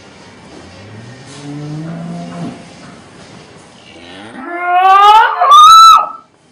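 Cow mooing: a low moo about a second in, then a much louder call that climbs steeply in pitch into a high squeal and cuts off suddenly near the end.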